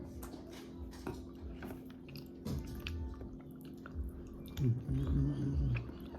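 Close-up chewing and biting of seafood-boil food, with small wet clicks and squishes, and a low voiced hum from the eater about three-quarters of the way through.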